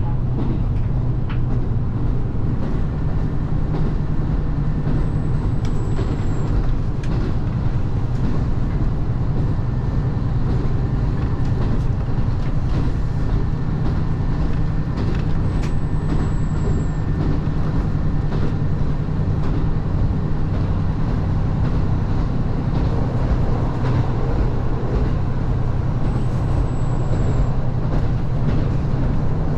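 Diesel railcar running steadily on a non-electrified line, a constant low engine hum under the rumble of the train in motion.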